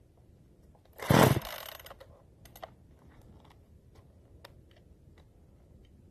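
One pull on the recoil starter cord of a generic 45cc Chinese two-stroke chainsaw about a second in. The engine turns over briefly and does not start, and a few light clicks follow.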